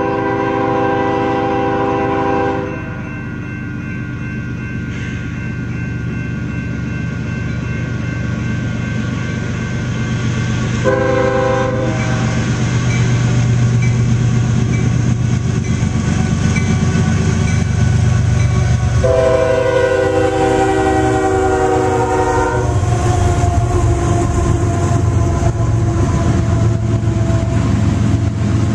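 Union Pacific freight train with six diesel locomotives approaching and passing a grade crossing, sounding its horn: a long blast, a short one about 11 seconds in, and another long blast starting about 19 seconds in that then carries on lower and fainter. The locomotives' diesel engines rumble louder as they come by, and the freight cars follow, rolling past on the rails.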